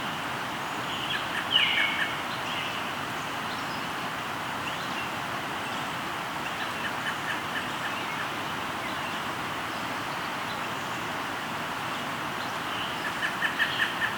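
River flowing with a steady rush, with birds singing over it. A quick downward-sweeping call comes about a second and a half in, and runs of short, quick notes come near the start and again near the end.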